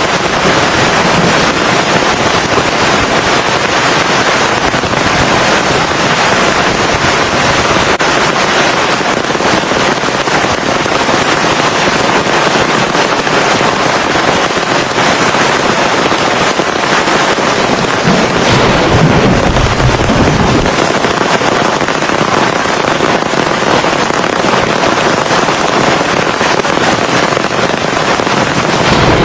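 Heavy rain pouring steadily, a dense crackling hiss of drops. A low rumble swells for a couple of seconds about two-thirds of the way through.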